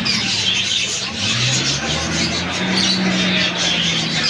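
A vehicle engine running with a steady low hum that rises in pitch about a second in, over a dense high chatter of birds.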